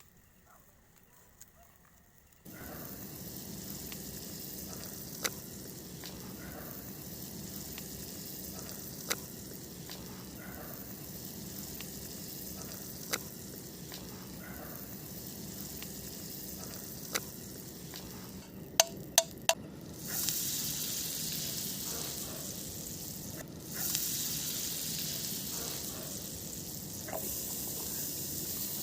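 Food sizzling as it fries over a campfire, a steady hiss that starts suddenly a couple of seconds in. Single sharp clicks come every few seconds, with three quick ones just before the sizzling gets louder about two-thirds of the way through.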